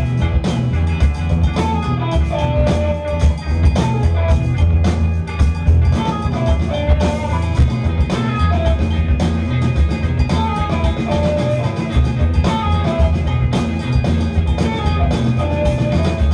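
Live rock band playing an instrumental passage: drum kit, bass guitars and electric guitars, with a short melodic figure of a few notes repeating about every two seconds over a steady heavy groove.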